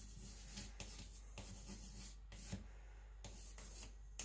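Atoma 140-grit diamond plate rubbed across a Naniwa Aotoshi 2000-grit whetstone to flatten it: faint, irregular scraping strokes, roughly one every half second to a second.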